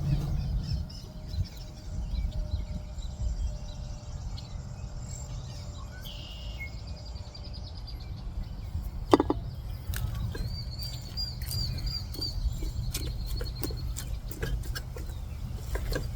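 Outdoor ambience: a steady low rumble with birds chirping, including a short repeated trill a little after the middle. There is a sharp click about nine seconds in, then scattered small clicks and knocks of handling.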